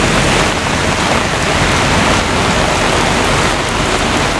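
Heavy rain pouring down in a thunderstorm: a steady, loud hiss of rain with no pauses.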